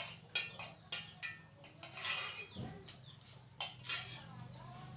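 Cutlery clinking and scraping against a plate while eating, a string of sharp irregular clinks.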